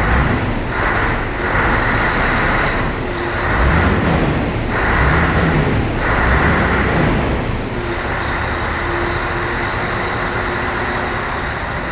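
Scania R164's V8 diesel engine running, its pitch rising and falling several times in the first seven or eight seconds before it settles to a steadier run.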